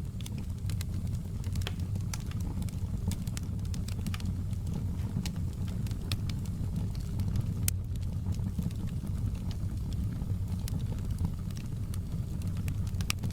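Wood fire of burning logs crackling, with irregular sharp pops and snaps over a steady low rumble of the flames.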